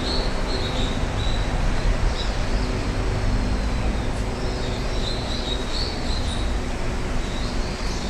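Steady rumble of road traffic, with short, high bird chirps sounding over it at intervals.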